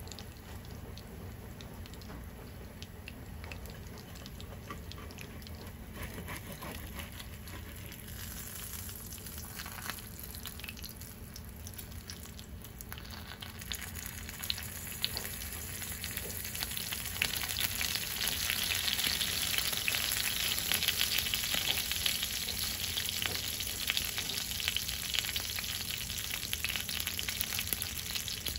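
Food frying in hot oil, a steady sizzle with crackling pops that swells from about eight seconds in and is loudest past the middle.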